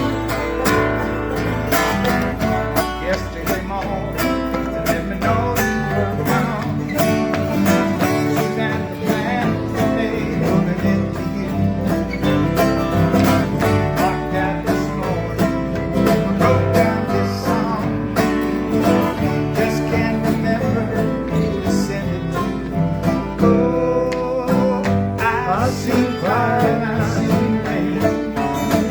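Acoustic country string band playing, with picked and strummed guitar and banjo.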